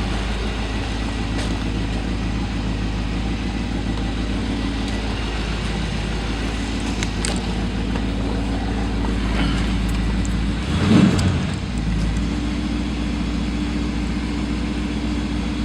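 1970 Ford Thunderbird's 429 V8 idling steadily, with a brief swell in engine sound about eleven seconds in.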